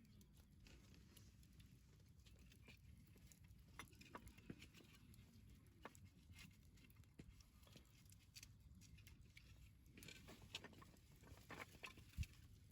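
Wood campfire crackling faintly, with scattered small snaps and pops, and a single dull thump near the end.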